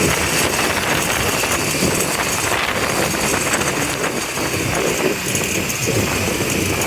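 Motorbike engine running on the move, with steady road and traffic noise.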